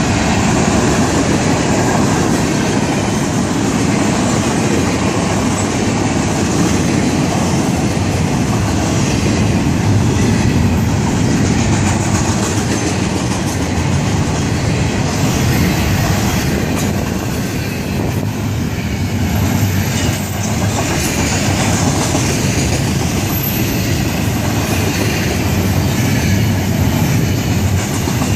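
Freight train cars rolling past at close range: a loud, steady rumble and rattle of steel wheels on the rails, from covered hoppers and boxcars and then well cars carrying stacked containers.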